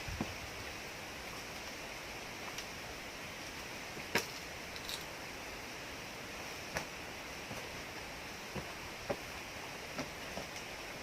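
A few scattered sharp clicks and knocks, about six, the loudest about four seconds in, over a steady background hiss.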